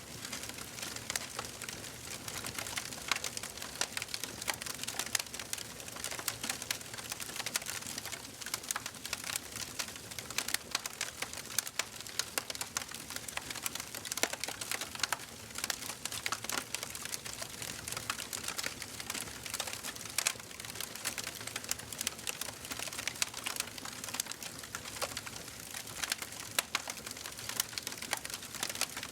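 Wood fire crackling in a fireplace: dense, irregular pops and snaps over a steady hiss of burning.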